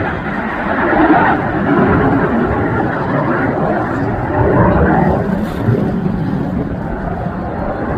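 Jet engine noise from the Red Arrows' BAE Hawk T1 jets flying past, a steady rushing that swells about a second in and again near five seconds.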